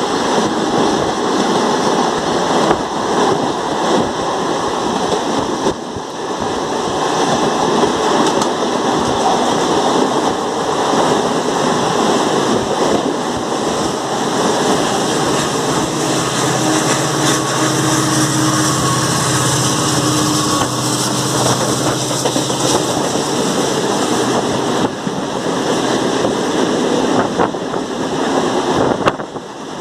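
Loud, steady rushing and rumbling of two trains running side by side at speed, heard from aboard a suburban electric local train with an express train's coaches passing close alongside. A steady low hum joins for several seconds midway.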